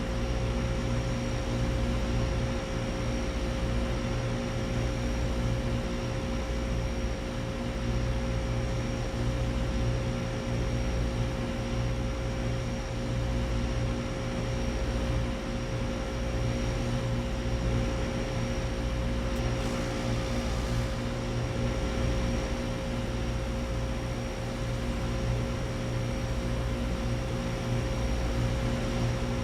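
Central air conditioner condensing units running steadily: scroll compressor hum and condenser fan, with a steady tone over a low, slightly pulsing hum.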